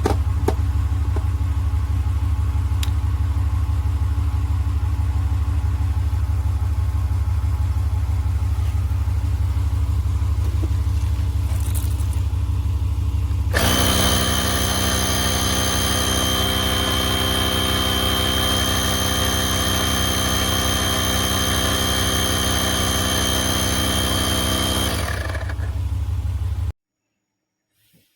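Oasser portable 12V/240V air compressor running, a loud steady low buzz from its piston motor. About halfway through, a higher steady whine joins in; the compressor cuts off suddenly about a second before the end.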